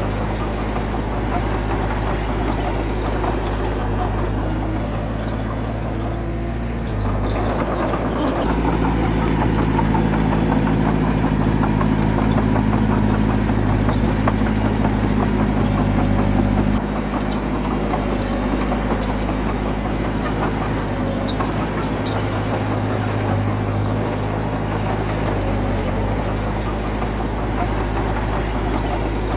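Diesel engine of heavy earthmoving equipment running steadily. It grows louder from about seven seconds in and drops back about seventeen seconds in.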